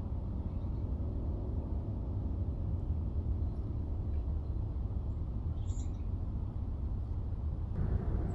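Steady low background rumble, with one short, high-pitched chirp from a small garden bird a little before six seconds in.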